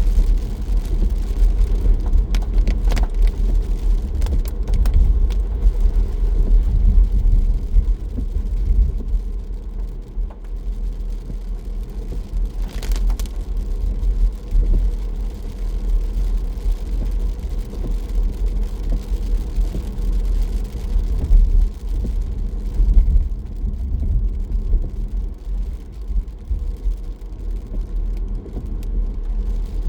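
Car driving along a rain-wet road: a steady low rumble of engine and tyre noise.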